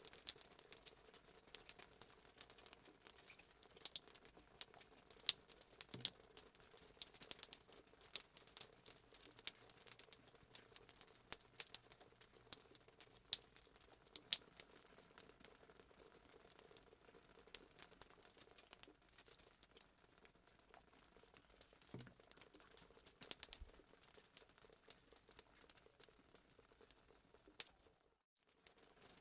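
Fireplace sound effect: a wood fire crackling, with irregular sharp pops and snaps over a low hiss. It cuts out for a moment about a second before the end.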